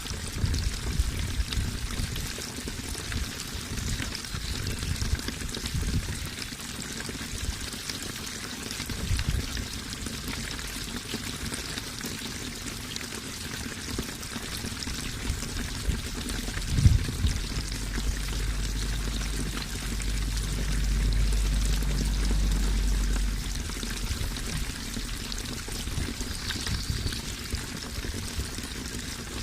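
Water running and splashing steadily, like a small waterfall or stream. A low thump comes just past halfway, followed by a low rumble for a few seconds.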